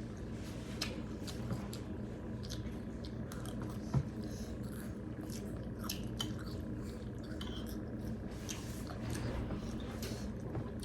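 Spoons and utensils clicking and scraping against plates and bowls during a meal, with one sharper knock about four seconds in, over a steady low hum.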